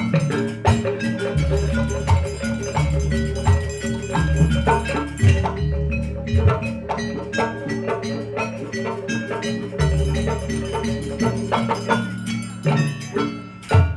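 Gamelan music accompanying a barong dance: bronze metallophones play a repeating melody of struck, ringing notes over low drum strokes.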